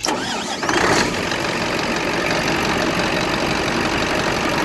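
Scania diesel engine started by the starter: a brief starter whine, then it catches about a second in and settles into a steady idle. The starter is now working after the starter-relay repair.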